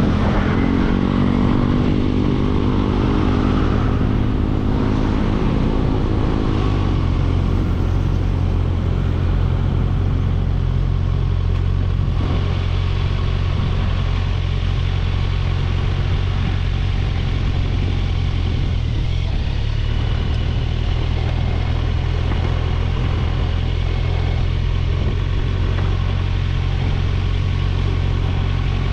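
Kawasaki Ninja 1000SX's inline-four engine running. Its note dips and then climbs gently over the first few seconds before settling into a steady low drone under a constant hiss.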